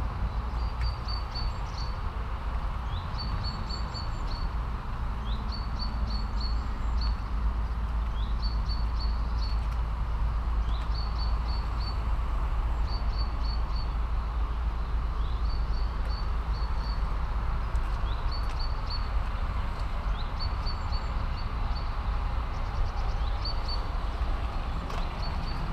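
A small bird singing the same short phrase over and over, a quick rising note followed by three or four high pips, about every two and a half seconds. Under it is a steady low outdoor rumble and hiss.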